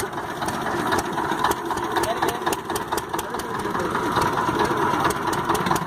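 Small fishing boat's engine running steadily, with scattered sharp clicks.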